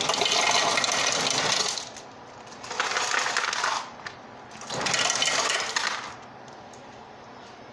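Self-serve soda fountain dispensing into a cup in three bursts, each one to two seconds long, with a rattling, clattering hiss.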